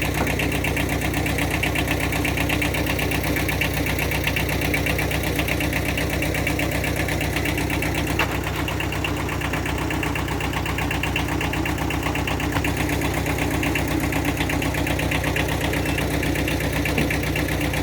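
Engine idling steadily, with an even, rapid beat.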